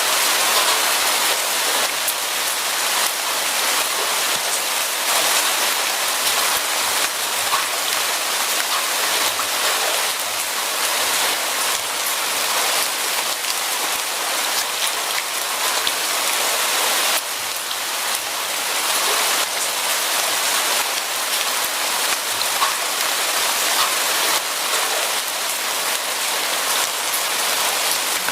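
Steady rain falling: a dense, even hiss with many small raindrop ticks on a surface.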